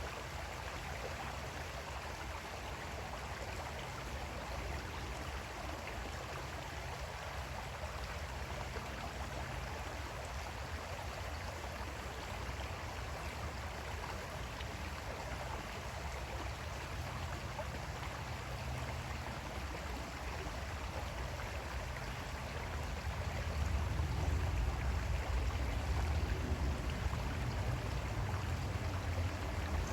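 Creek water flowing steadily, an even rushing. About three-quarters of the way in, a low rumble underneath grows louder.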